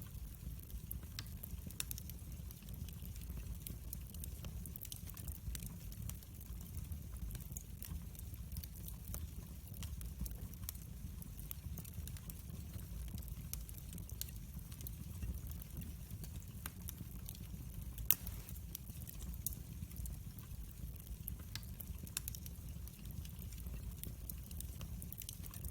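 Fireplace fire crackling: a steady low rumble with frequent small pops and crackles, and one louder pop about eighteen seconds in.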